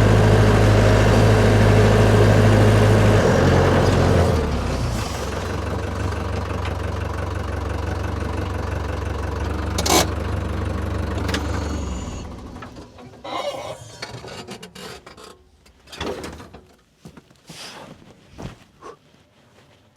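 A vehicle engine running steadily, dropping to a lower idle about three seconds in, then shut off about twelve seconds in. A sharp click comes shortly before it stops, and a few scattered knocks and clunks follow.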